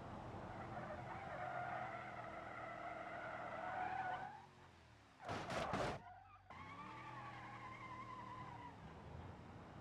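A car's tyres spinning and squealing as it strains to get out of a pothole, the pitch rising over several seconds, then fading. About five seconds in comes a short, loud burst of noise, and then the spinning and squealing start again.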